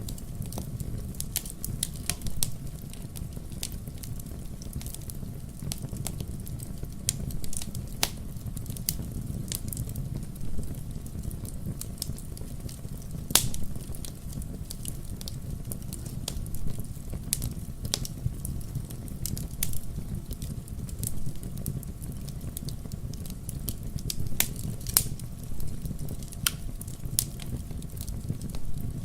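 Wood fire crackling in a fireplace: sharp pops and snaps at irregular moments, over a steady low rumble of the burning fire.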